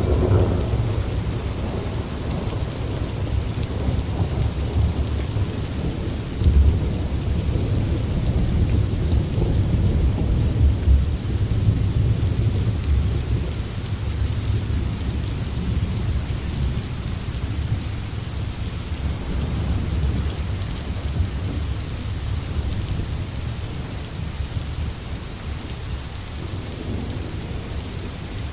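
Steady rain falling among forest trees, with low rolling thunder underneath. The rumble swells near the start and again a few seconds in, then slowly eases toward the end.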